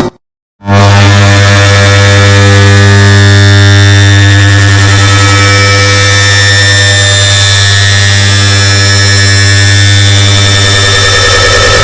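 Air conditioner turn-on sound, stacked and amplified into a very loud, harsh, steady hum with many overtones and hiss over it. It starts sharply after a brief silence about half a second in, then holds.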